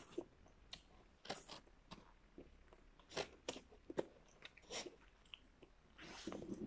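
Faint chewing of a mouthful of McDonald's McChicken sandwich: soft, irregular crunches and mouth clicks.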